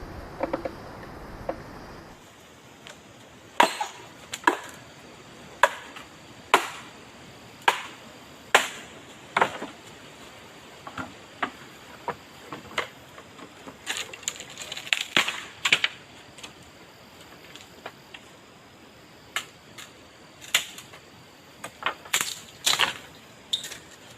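Repeated sharp strikes of a tool into wood, about one a second with some quick clusters, starting a few seconds in.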